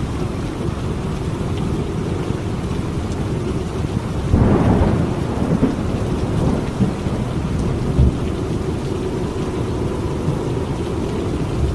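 Steady heavy rain with rolling thunder: a louder rumble of thunder swells about four seconds in, followed by a few smaller rumbles.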